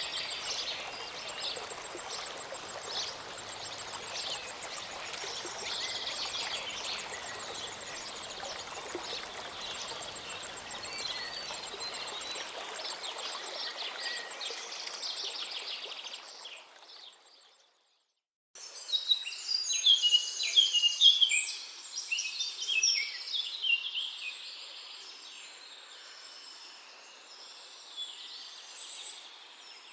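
Small mountain stream or waterfall running steadily with birds singing over it; it fades out about halfway through, there is a second of silence, then songbirds chirp and sing with little water sound, loudest a few seconds after the gap.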